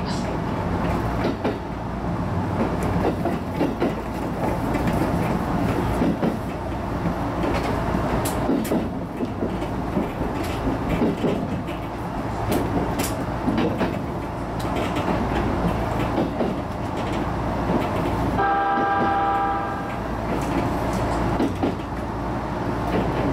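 JR East HB-E210 series hybrid railcar running along the line: a steady rumble of wheels on rail with a scattering of clicks over the rail joints. Near the end comes one horn blast of about a second and a half.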